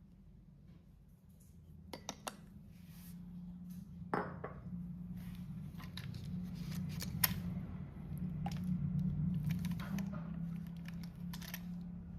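HO-scale Big Boy model locomotive running on its track: a steady low hum that grows louder, with scattered sharp metallic clicks and clinks.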